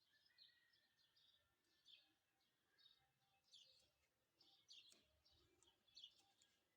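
Faint chirping of small songbirds: many short, high chirps in loose clusters, with a thin drawn-out whistle in the first second or so and one sharp tick about five seconds in.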